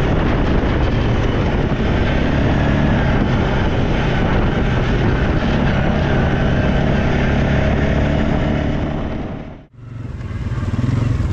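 ATV engine running steadily under load. About ten seconds in the sound drops out for a moment, then the engine comes back.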